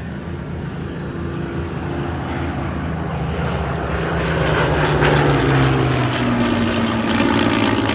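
Propeller-driven piston-engined aircraft flying past, the engine drone growing louder to a peak about five seconds in and then falling in pitch as it passes.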